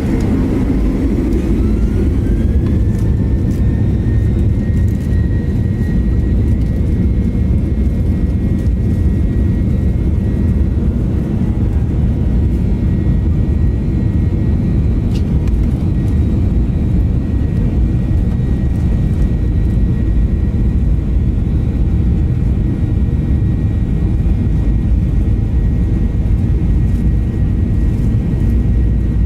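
Boeing 737-800's CFM56 turbofan engines heard from the cabin, spooling up: a whine rises over the first few seconds and then holds steady over a loud, steady roar, as at take-off thrust.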